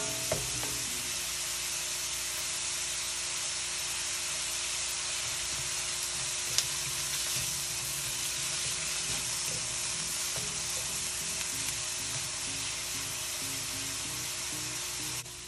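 Onions sizzling in hot olive oil, a steady frying hiss, with one sharp tick about six and a half seconds in; the sizzle drops off suddenly just before the end.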